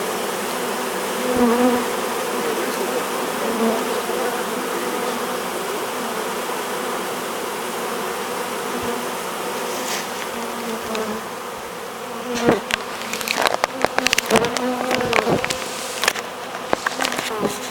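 Honey bee swarm buzzing at close range: a dense, steady hum with wavering tones, as the bees scent fan and march into the hive. In the last five seconds a rapid run of sharp clicks and knocks sounds over the buzzing.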